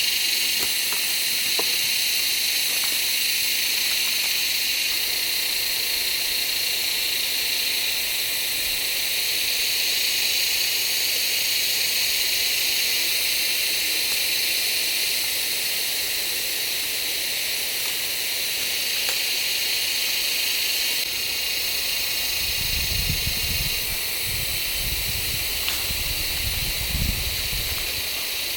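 A steady high-pitched hiss, with a few low thuds in the last several seconds.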